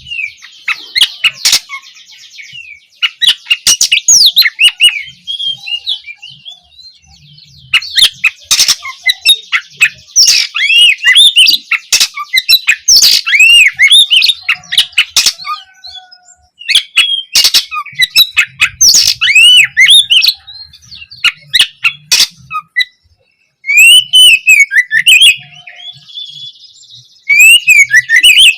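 Oriental magpie-robin (kacer) singing a loud, varied song of whistled phrases and chirps, mixed with sharp clicking notes and stretches of harsh rasping buzz, with a few short pauses.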